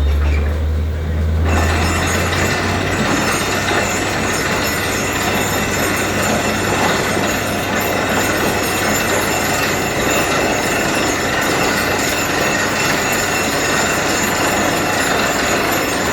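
Borewell drilling rig running: a loud, steady rush of noise with several high whining tones. A deep engine hum gives way to the rush about a second and a half in.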